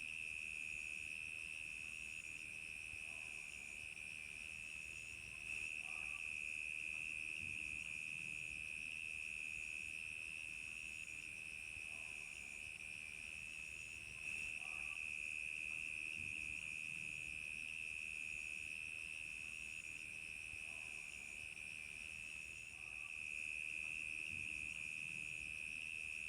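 Crickets chirping: a continuous high trill, with a second, higher chirp pulsing at an even rhythm of roughly once a second.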